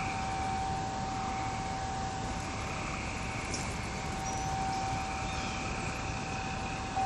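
A wind chime's single tone ringing on steadily without new strikes, over a steady outdoor background hiss with a few faint, brief high chirps.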